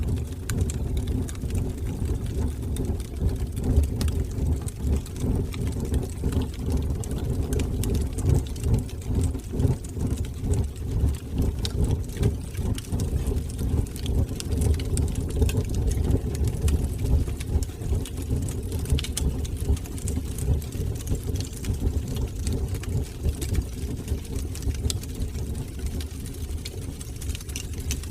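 Wood fire burning in a fireplace: a steady, fluttering low rumble of flames with scattered small crackles.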